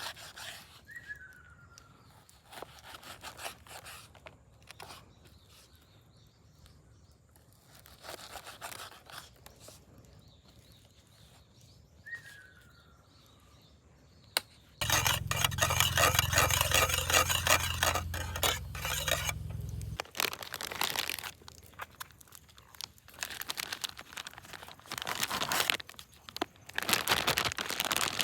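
Rustling, crunching and scraping handling noises, loudest for about five seconds past the middle, with a short falling bird call twice.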